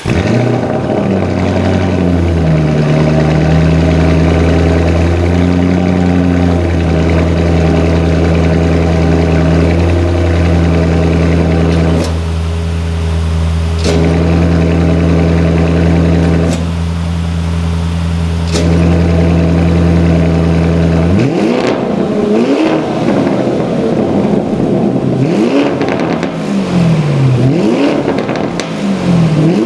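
Lamborghini Urus twin-turbo V8 running through a titanium valved catback exhaust, holding a steady idle for about twenty seconds. It then gives a series of quick revs that rise and fall.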